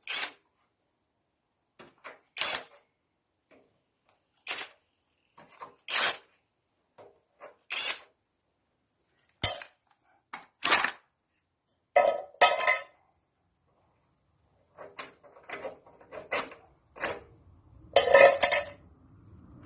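Metal tools and engine parts clinking and clanking as a Lister SR3 diesel engine is stripped down: about a dozen separate knocks with silent gaps between them, a couple ringing briefly near the middle and end.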